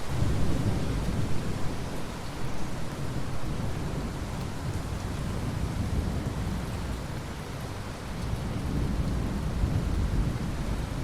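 Rolling thunder over steady rain. The low rumble starts abruptly, eases off about two thirds of the way through and builds again near the end.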